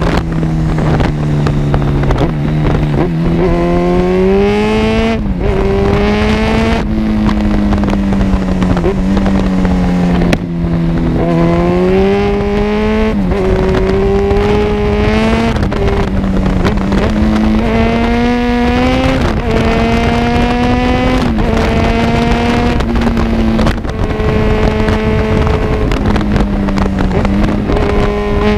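Kawasaki Z1000's inline-four engine through an Arrow full exhaust system, ridden on the road. The engine note climbs in pitch over a few seconds, drops back and climbs again about half a dozen times as the bike accelerates and eases off.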